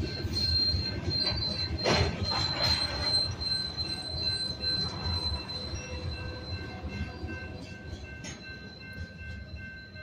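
Freight cars rolling past, with a high steady wheel squeal and a loud clank about two seconds in, fading toward the end as the last car clears. Steady tones of the grade-crossing warning bell ring underneath.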